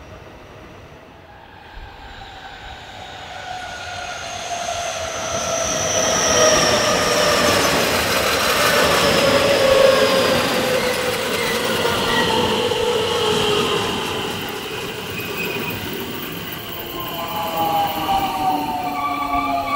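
Train slowing down, a motor whine of several tones falling steadily in pitch as the running noise grows to a peak about halfway through; near the end a new set of falling tones starts.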